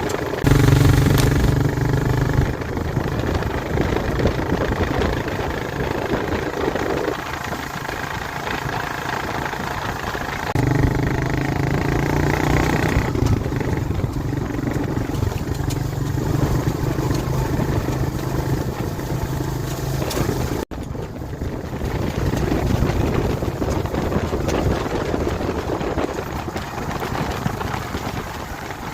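ATV engine running under changing throttle while being ridden off road. Its note shifts up and down in steps several times, and the sound drops out for an instant about two-thirds of the way through.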